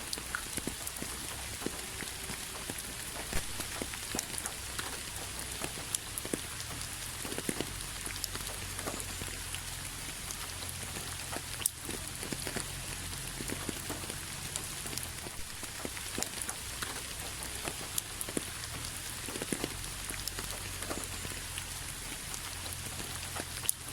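Steady rain falling, with many individual drops ticking sharply on a surface close by.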